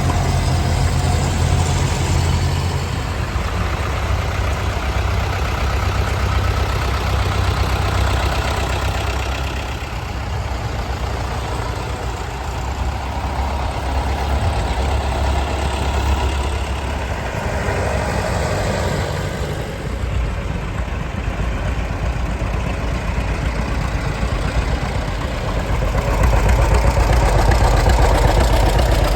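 Vintage tractor engines running at low revs, the low engine note changing every few seconds as different tractors come and go, and growing louder near the end.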